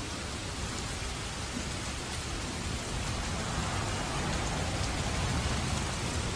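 Steady rain falling, an even hiss with a low rumble underneath that swells a little past the middle.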